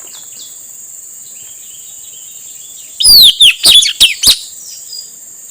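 Male puling (blue-rumped parrot) calling: a burst of about five loud, shrill notes sweeping downward in pitch about three seconds in, followed by fainter chirps. A steady high insect drone runs underneath.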